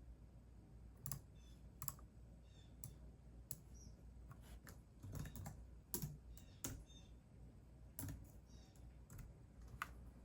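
Computer keyboard being typed on in slow, irregular keystrokes: a dozen or so scattered faint clicks, bunched more closely near the middle.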